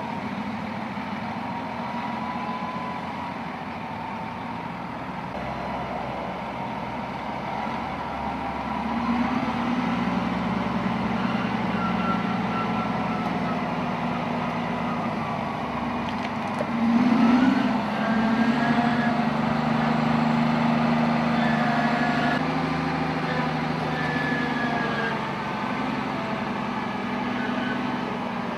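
Heavy diesel machinery or truck engine running steadily with a whining note above the drone, briefly surging louder about two-thirds of the way through.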